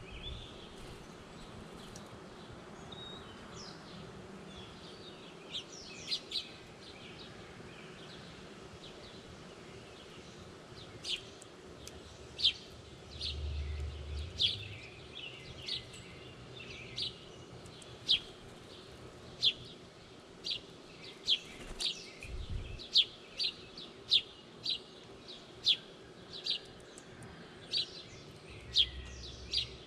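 A bird giving short, sharp chip notes. They come sparsely at first, then repeat about once a second through the second half.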